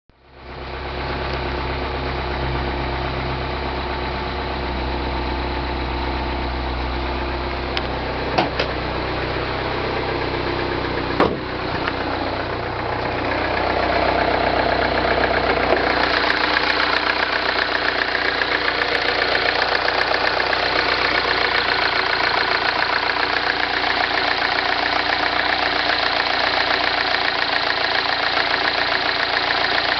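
2009 MINI Cooper S's 1.6-litre turbocharged four-cylinder idling on a cold start with the timing chain rattle known as the death rattle. Two sharp clicks come about 8 and 11 seconds in, and the engine sound grows louder and more rattly about halfway through.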